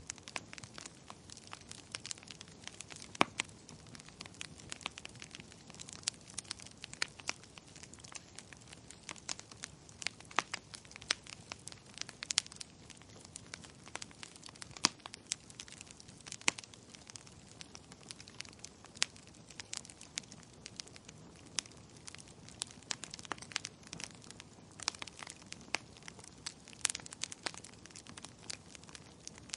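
Wood fire crackling in a fireplace: a steady soft hiss with frequent irregular sharp pops and snaps, a few louder than the rest.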